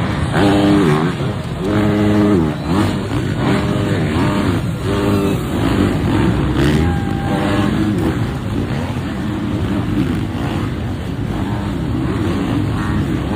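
Motocross bike engines revving, their pitch climbing and dropping again and again through the first five seconds, then settling into a steadier, denser engine sound.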